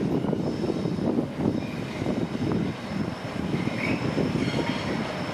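Train running past with a steady low rumble of wheels and traction, and a faint high whine over it.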